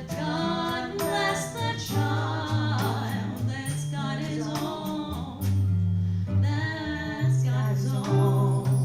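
Live jazz combo music: a wavering lead melody over guitar and sustained low bass notes that change about once a second.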